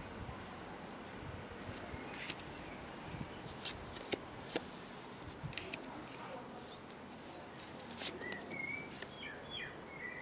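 Small birds chirping over a steady hiss of wind, with a few sharp clicks scattered through; a burst of chirps comes near the end.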